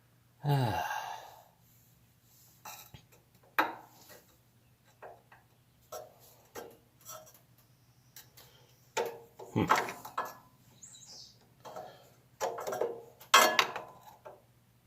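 Irregular clinks and knocks of metal hand tools and parts while a lawn tractor is being taken apart, with a sound sliding down in pitch about half a second in and louder clusters of clatter around ten and thirteen seconds in.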